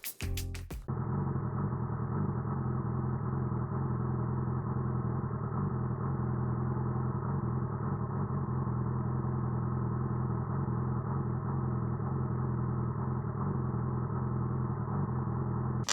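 Yamaha YZF-R6 inline-four with an Akrapovic slip-on exhaust idling steadily. It starts about a second in and holds an even pitch with no revving.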